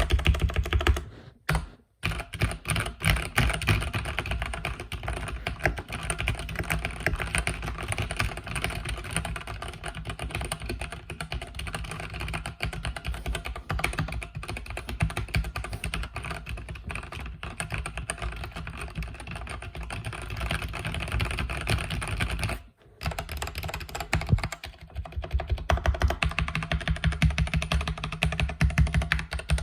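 Continuous fast typing on a mechanical keyboard with red linear switches, keys clacking rapidly. It breaks off briefly about a second in and again about two-thirds of the way through. Near the end the strokes come heavier and deeper.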